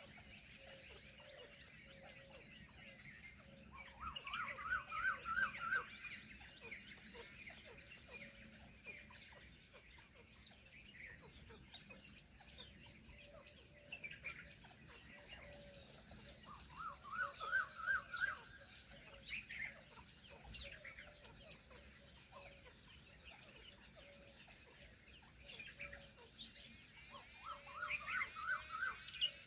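Birds calling: a rapid rattling series of rising calls, repeated three times about every twelve seconds, with fainter chirps in between.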